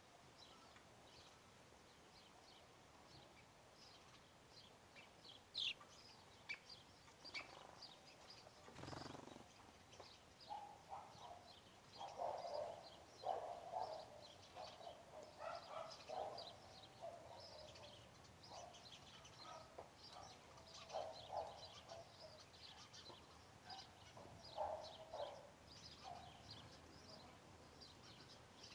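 Birds calling: many short, high chirps go on throughout. From about ten seconds in, a lower, louder call repeats in short bouts until shortly before the end.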